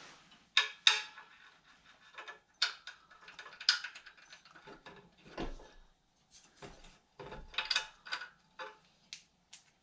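Hand ratchet clicking in irregular runs while an engine mounting bolt is run in and tightened, with scattered metal clinks and knocks.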